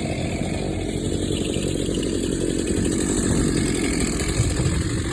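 Chainsaw running steadily, cutting through downed trees.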